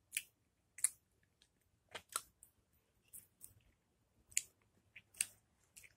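Chewing a slice of green lemon: a string of short, sharp wet clicks and smacks from the mouth, irregularly spaced, about eight in all.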